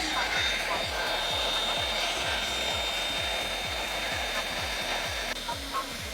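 Shark hot-air blow-dryer brush running steadily on a child's hair, a rushing airflow with a thin high whine, easing a little about five seconds in. A background music beat of low thumps runs under it.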